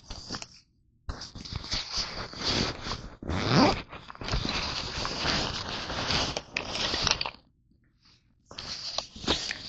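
Crinkling, crunching and scraping from handling crunchy Nature Valley granola bars, in long rough bursts with a short pause near the end.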